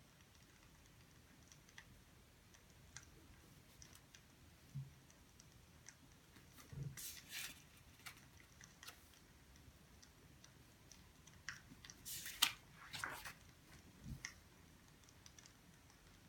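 Quiet room with scattered small clicks and rustles, a few louder ones about seven seconds in and again about twelve to thirteen seconds in.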